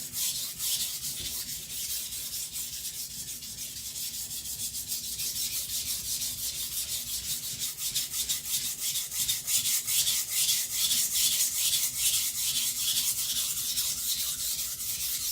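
Steel knife blade, AEB-L hardened to HRC 66, scrubbed back and forth on a sharpening whetstone in quick even strokes, about three or four a second. The blade is held nearly flat under heavy pressure to grind away the bevel shoulders and thin the edge.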